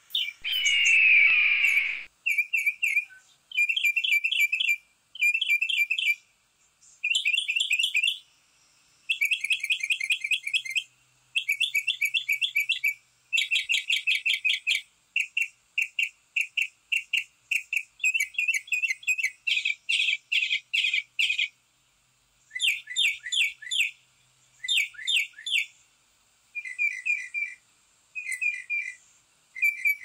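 Backyard songbirds calling in a long series of short bursts of rapid, high chirps and trills, with a louder, harsher call in the first two seconds.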